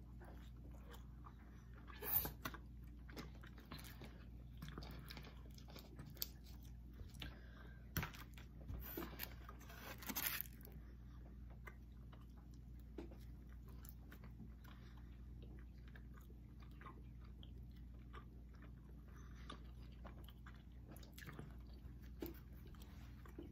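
Two people chewing and biting into pizza and cheese sticks: quiet, continual mouth sounds with a few louder crunchy bites about two seconds in and around eight to ten seconds in.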